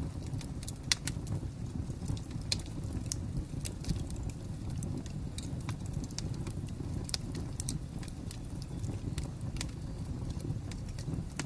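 Wood fire crackling: a steady low rumble of flames with sharp, irregular pops and snaps, several a second.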